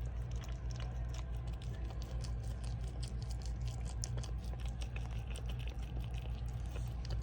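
Mother dog licking and chewing at a newborn puppy and its birth sac: fast, irregular wet clicks and smacks over a steady low hum.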